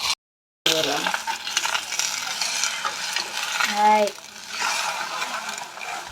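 An omelette frying with a steady sizzle, with a utensil scraping and stirring in the pan. The sound drops out for half a second just after the start.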